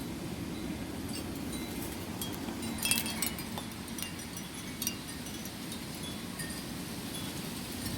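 Wind chimes ringing irregularly as the wind moves them, with a dense cluster of strikes about three seconds in, over a steady low rumble of wind.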